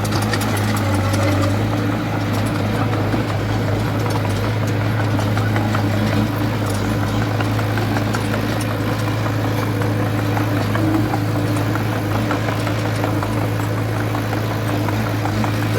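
Heavy construction machine's diesel engine running steadily, with a constant low hum and light rattling.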